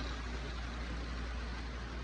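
Vintage HO scale TYCO model trains running on the layout's track: a steady whir and rumble of the locomotive motors and wheels, with a constant low hum underneath.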